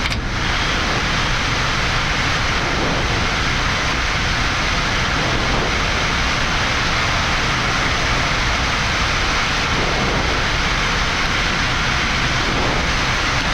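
Steady rushing flight-deck noise of a Boeing 787-9 climbing just after takeoff with flaps at 1: airflow and engine noise, even and unchanging.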